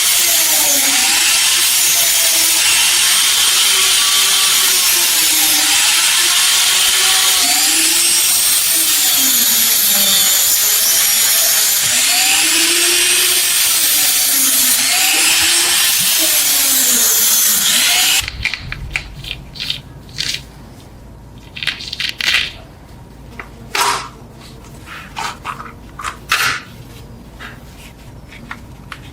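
Handheld electric power tool working metal under varying load, its motor pitch dipping and recovering every second or two over a loud hiss. About eighteen seconds in it stops abruptly, leaving quieter scattered clicks and knocks.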